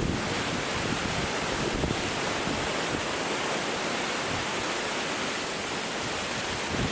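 Strong typhoon wind blowing steadily through bamboo, an even rushing hiss.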